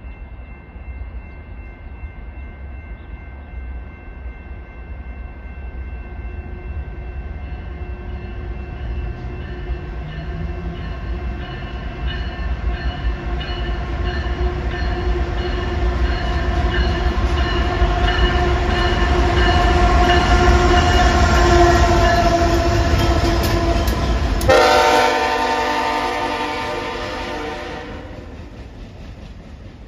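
Freight train with diesel locomotives approaching and passing, its engine and wheel rumble building to a peak about two-thirds through. Near the end the lead locomotive sounds one long horn blast of about three and a half seconds, which cuts off as the engines go by and the rumble fades.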